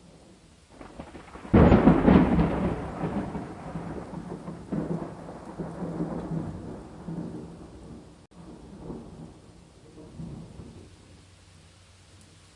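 A thunderclap breaks about a second and a half in and rolls on as a rumble that swells again a few times and dies away over the following seconds. Steady rain continues faintly underneath.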